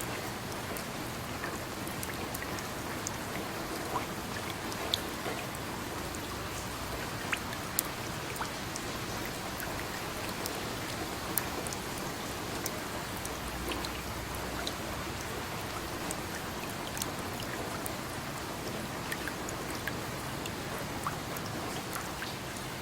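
Steady rain falling, an even hiss with scattered individual drops striking close by as sharp little ticks.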